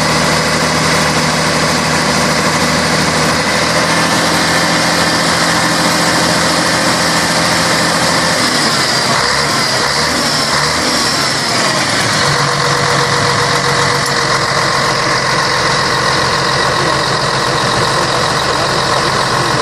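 Scania K113 bus's 11-litre straight-six diesel engine running steadily. About eight seconds in the engine note changes over a few seconds, then it settles into a steady run again.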